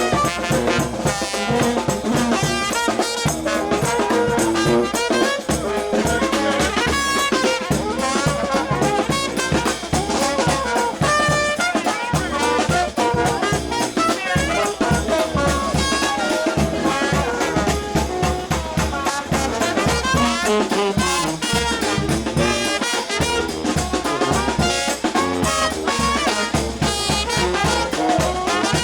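New Orleans brass band playing a second line tune: trumpets and trombones over a steady bass drum and snare beat.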